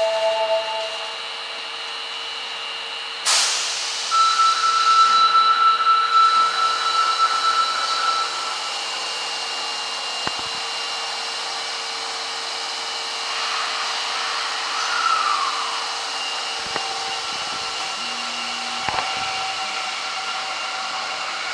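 Osaka Metro 25 series subway train running: a steady hum with several held whining tones. There is a sudden rush of noise about three seconds in, a falling whine midway, and a few short knocks.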